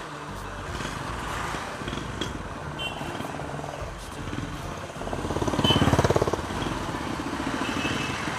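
Road traffic with motorcycle engines running; about five seconds in, a motorcycle engine swells loud for a second or so with rapid firing pulses, then falls back.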